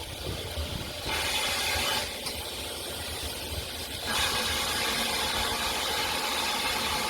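GWR Manor-class steam locomotive 7827 Lydham Manor letting off steam in two hisses, a short one about a second in and a longer one from about four seconds in, over a low rumble.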